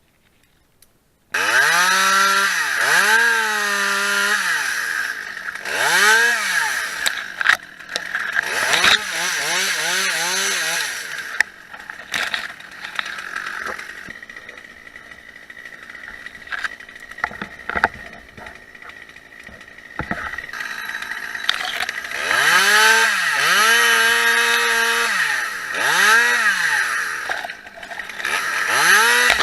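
Two-stroke chainsaw starting up abruptly about a second in and revved again and again, its pitch climbing and falling with each squeeze and release of the throttle. It drops to a quieter, lower running spell in the middle before the repeated revving returns.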